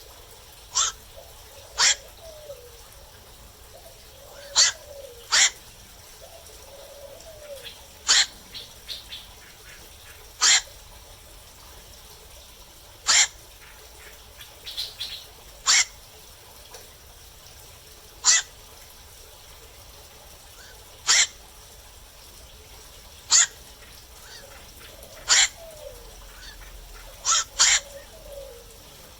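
Black-crowned night herons calling: about fourteen short single calls, one every two to three seconds, now and then two in quick succession.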